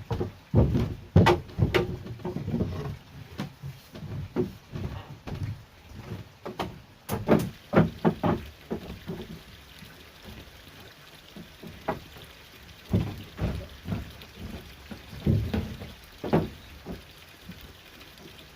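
Irregular knocks and clunks of wood and bamboo being handled and set in place, busiest in the first few seconds, easing off briefly about two-thirds of the way through, then picking up again.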